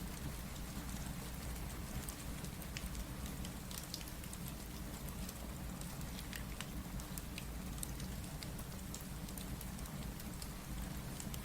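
Steady rain together with a crackling wood fire: a constant even hiss and low rumble, with scattered irregular pops and snaps from the burning logs.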